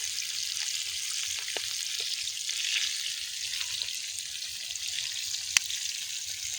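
Fish frying in hot oil in a large iron pan: a steady sizzle with scattered small pops, and one sharper pop about five and a half seconds in.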